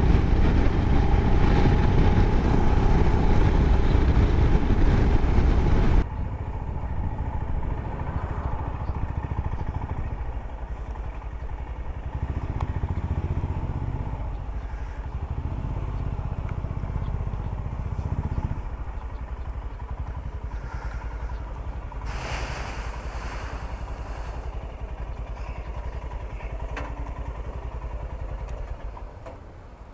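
Royal Enfield Himalayan single-cylinder motorcycle riding at speed, engine and wind noise loud at first. About six seconds in there is an abrupt cut to a quieter, low motorcycle engine sound, with a brief hiss about two-thirds of the way through.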